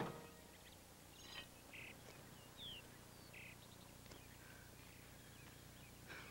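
Near silence with a few faint, short bird chirps, one a quick falling note, scattered through the first few seconds.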